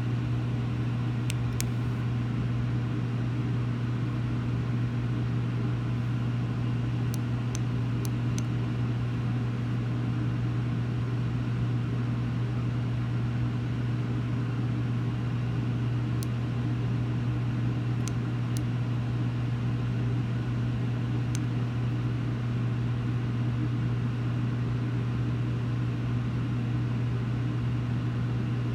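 A steady low hum that does not change, with a few faint high ticks.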